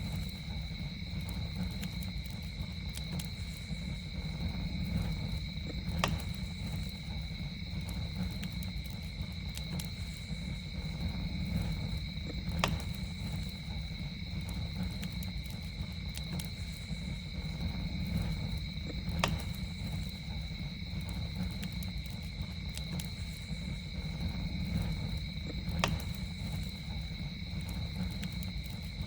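Campfire crackling with a low steady rumble of burning and small faint crackles, and a sharp pop four times at even spacing of about six and a half seconds. Behind it, insects drone steadily at two high pitches.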